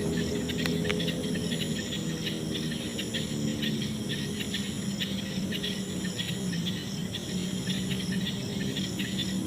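Night chorus of crickets and other insects: a dense, rapid high chirring, with long high buzzing notes that start and stop every second or two. A low steady hum runs underneath.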